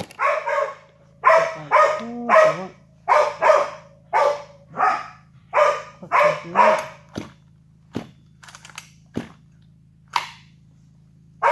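A dog barking repeatedly in quick, loud barks, about a dozen over the first seven seconds, then a few short sharp clicks and one more bark near the end.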